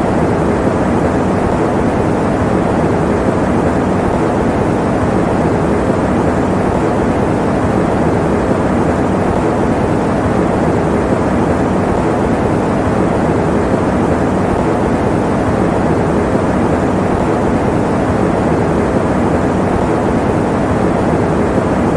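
Electric fan running steadily: an even, low whooshing noise with a faint hum, no changes or breaks.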